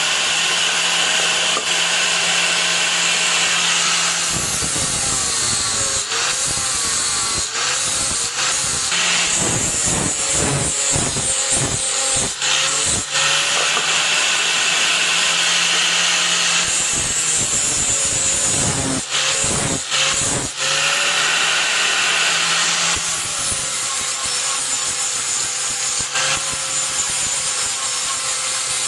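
Electric grinder working steel: a continuous grinding rasp over a motor hum whose pitch sags and recovers as the tool is pressed in and eased off. In the middle there is a stretch of shorter scraping strokes.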